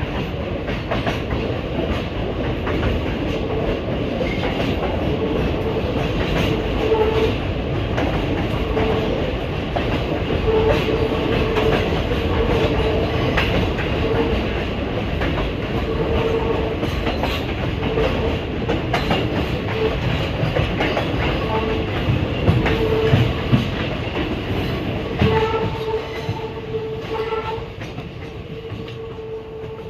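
Passenger train running on the rails, heard from on board: a loud, steady rumble of wheels and carriages with short clicks and clatter. A tone comes and goes throughout, and the noise eases off over the last few seconds.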